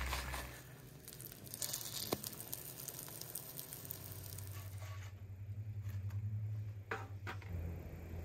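French toast and bacon sizzling in a cast-iron skillet on a camp stove, the hiss loudest in the first couple of seconds as the bread goes into the hot fat, then softer. A couple of light knocks near the end.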